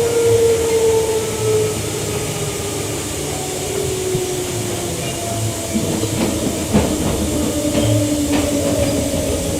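Queensland Rail EMU electric train running, its traction motor whine falling steadily in pitch as the train slows, over the rumble of the carriage. A few sharp clacks of wheels over rail joints come in the second half.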